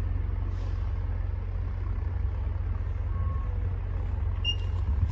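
Semi-truck diesel engine idling with a steady low rumble. A short high beep sounds near the end.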